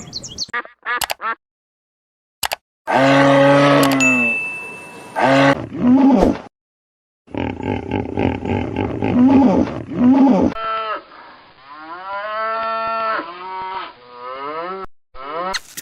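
A string of separate animal-call clips spliced one after another, with abrupt cuts and short silent gaps between them. Most of the calls are drawn-out, pitched cries that bend up and down, and the last few are repeated arching calls.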